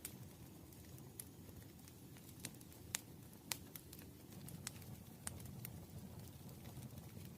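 Campfire crackling faintly: scattered sharp pops at irregular moments, the loudest two about three seconds in, over a low, steady rumble of burning.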